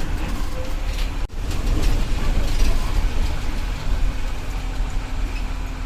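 Diesel engine of a Tata bus running with a steady low rumble, heard from inside the bus.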